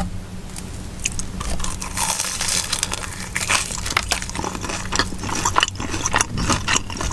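Close-up crunching and chewing of a Hot Cheetos–coated Korean corn dog: many crisp, crackling bites into the fried crust.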